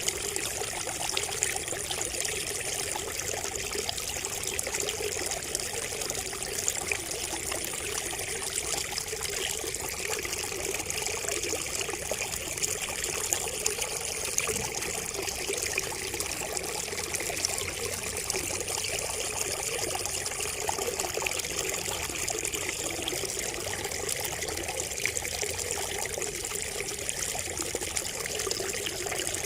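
Water trickling steadily from a bamboo spout and splashing below, an even, unbroken babble.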